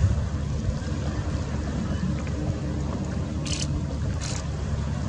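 Motorboat engine running steadily at low revs, a continuous low hum. Two brief hissing bursts come about three and a half and four seconds in.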